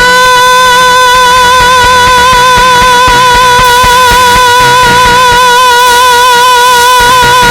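A singer holding one long, high note with a steady vibrato over the band's accompaniment.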